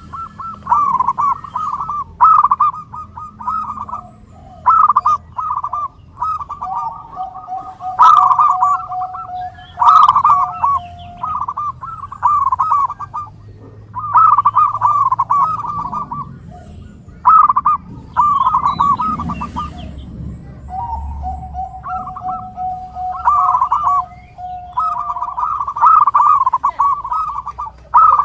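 Zebra doves (perkutut) cooing: repeated phrases of rapid, bubbling coos a second or two long with short pauses between. Twice a long steady lower note is held underneath for several seconds.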